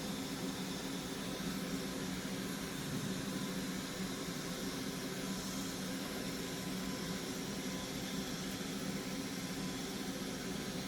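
Hot-air rework station blowing steadily on a circuit board, an even hiss with a faint hum underneath, heating stubborn lead-free solder in a power connector's through-holes.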